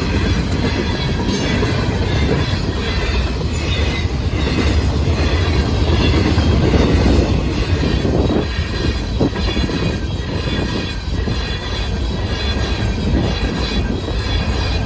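Norfolk Southern train rolling past, a steady loud rumble of wheels on the rails. Rhythmic clicks sound as the wheels cross rail joints, over a thin high wheel squeal.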